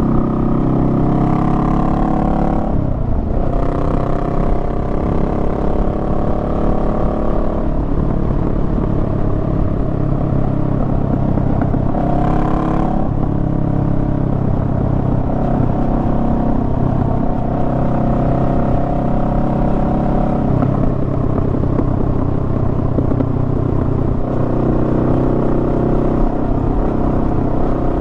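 Honda Rebel 500's 471 cc parallel-twin engine running under way on a motorcycle ride. Its note rises and falls with the throttle, dipping sharply and picking up again about three seconds in, and shifting again a few more times.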